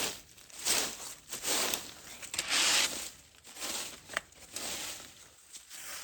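Rustling, crunching footsteps on a dry surface, roughly one step a second, with short quieter gaps between them.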